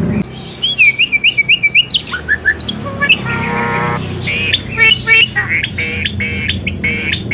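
Javan myna chattering: a quick run of about eight rising chirps about a second in, a held note around three seconds, then more mixed chirps, whistles and harsh squawks.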